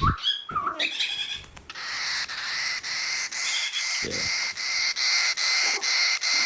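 Cockatiel chirping briefly, then giving a long raspy hissing call made of quick pulses, about three a second.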